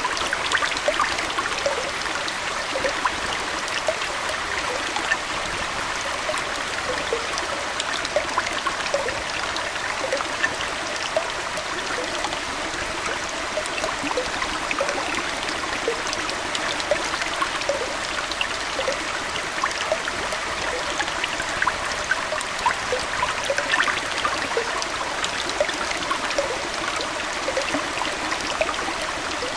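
Aquarium water flowing and trickling steadily, dotted with many small bubbling plinks.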